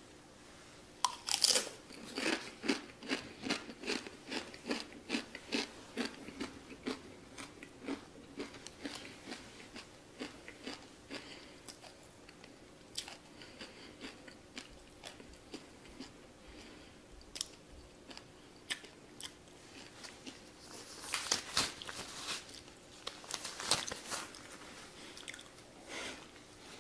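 A Paqui One Chip Challenge tortilla chip bitten about a second in, then chewed with rapid crisp crunches, about two a second, that slow and fade over the next ten seconds. A louder cluster of mouth sounds comes near the end.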